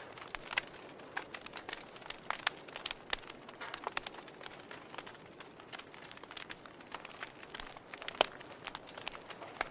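Campfire crackling: irregular sharp pops and snaps of burning wood over a soft steady hiss, with one louder pop near the end.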